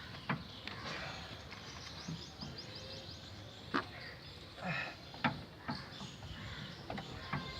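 Workshop ambience: about half a dozen scattered sharp knocks and clicks from work on the car, with birds chirping in the background.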